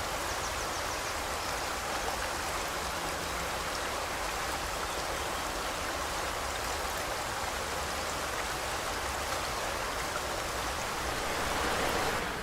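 River water rushing steadily over rocks, with a brief faint bird twitter about half a second in.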